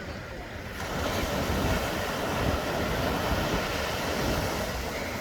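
Steady rushing noise with a heavy low rumble, getting louder about a second in.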